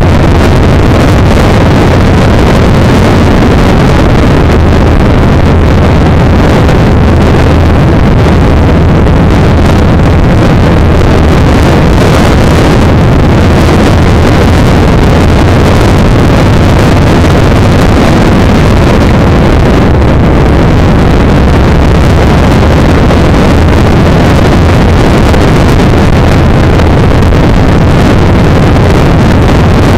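Yamaha XVS1300's V-twin engine running steadily under way, with wind rushing over the microphone.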